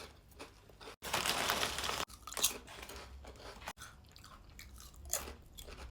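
A person crunching and chewing crisps close to the microphone: a dense burst of crunching about a second in, then softer chewing with a few small clicks.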